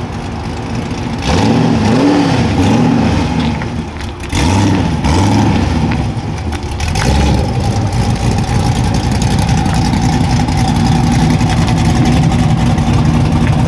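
A car engine revving in several quick blips, its pitch rising and falling each time, then running steadily from about seven seconds in.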